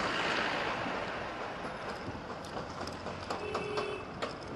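Road noise of a vehicle going past, swelling at the start and fading away, with a few light clicks and a brief faint tone in the second half.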